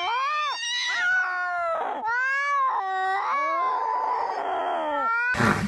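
A cat yowling in a string of long, drawn-out calls that bend up and down in pitch, cut off suddenly near the end.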